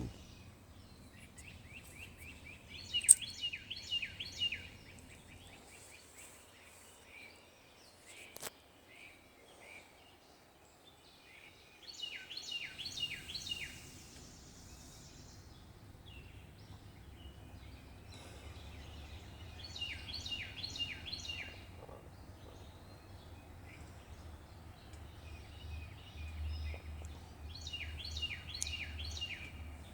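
A songbird repeats a short song four times, each a quick run of falling whistled notes about a second and a half long. A low steady rumble comes in partway through and grows a little near the end.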